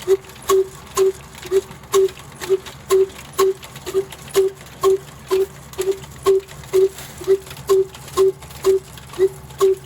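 Old black diesel engine running slowly and evenly, a sharp beat with a short ringing note about twice a second over a low hum.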